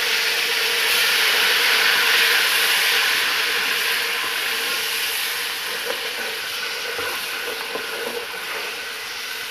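Frying masala of garlic, ginger and crushed red chilli sizzling in hot oil in a metal pot, a splash of water having just hit the oil. The sizzle is loudest at first and slowly dies down as it is stirred, with a few light clicks of the spoon against the pot in the second half.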